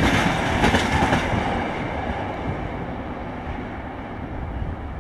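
Freight train of container flat wagons rolling away on the track, the wheels clacking at first, then the rolling noise fading steadily as the last wagons recede.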